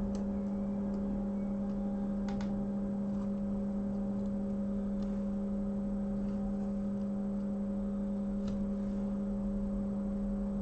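Steady electrical hum from workbench equipment, a constant low tone with a few faint light ticks over it.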